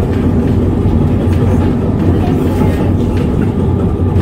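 Vintage electric tram running along its rails, heard from on board: a steady, loud, low hum of motor and wheels.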